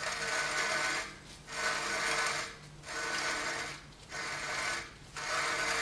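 Volvo 940 rear axle being turned by hand, a rasping rub sounding with each turn and fading between, about five strokes in a steady rhythm of a little over a second each. The rubbing is put down to the brake disc dragging.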